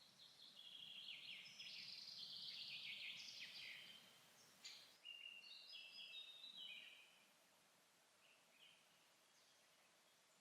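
A songbird singing faintly: a long, rapid, trilling phrase in the first few seconds, then a second, slower phrase of whistled notes, with a few scattered notes near the end.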